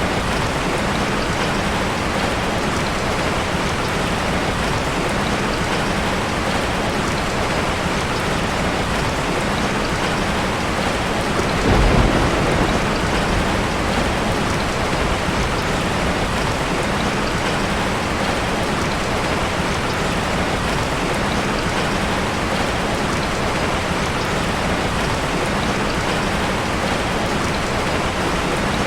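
Steady rain falling, an even hiss, with one short rumble of thunder about twelve seconds in.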